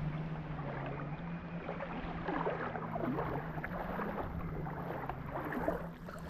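A steady low motor drone whose pitch wavers slightly, with many short, scattered higher-pitched sounds over it.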